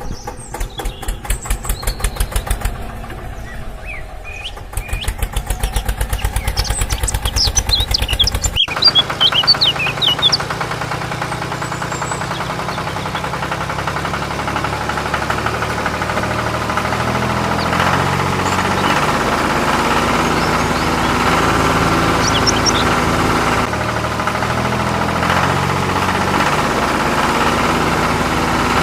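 A small engine running with a fast, even chugging pulse; about a third of the way in the sound cuts abruptly to a steadier engine hum. Birds chirp a few times.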